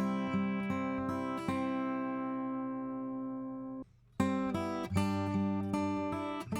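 Acoustic guitar strumming chords through a Warm Audio WA-2A opto compressor in compress mode with pre-emphasis. About a second and a half in, one chord is left ringing and fades out. After a short gap, the strumming starts again.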